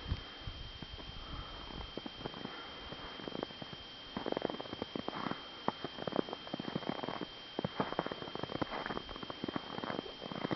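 Footsteps crunching in snow, starting about four seconds in and going at a walking pace of about two steps a second.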